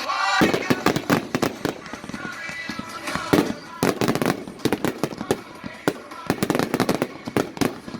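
Fireworks going off in a rapid, irregular barrage of sharp bangs and crackles, several a second throughout.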